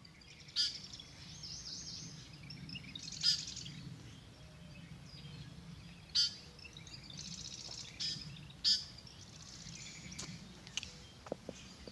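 Several wild birds calling back and forth: short, high, sharp calls every few seconds, with fainter chirping in between.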